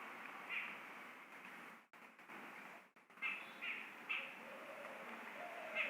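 A small bird chirping in short calls, about five of them and three close together in the middle, over a steady background hiss.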